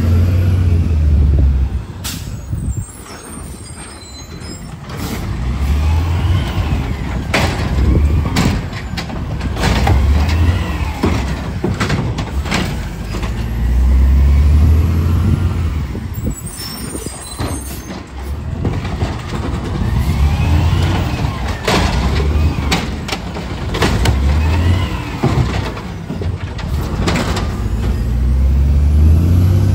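Garbage truck at work: its engine revs up again and again, every few seconds, with a whine that rises and falls along with each rev. Sharp metal clanks and a few short hisses come between the revs.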